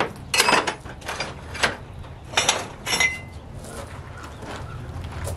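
Metal clanking: about six sharp metal-on-metal strikes at uneven intervals over the first three seconds, the last one ringing briefly.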